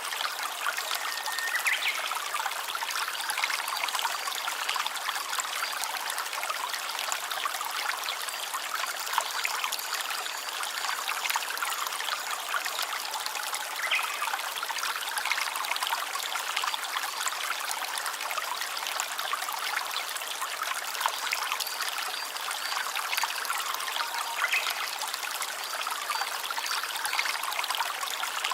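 A small stream trickling steadily, an even rushing with no pauses.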